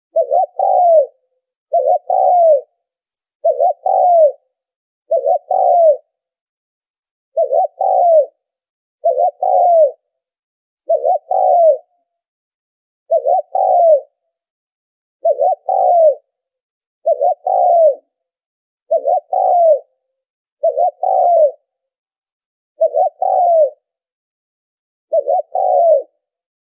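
Spotted dove cooing: a short coo phrase repeated about fifteen times, roughly one every second and a half, with silence between phrases. It is a looped lure call for trapping doves.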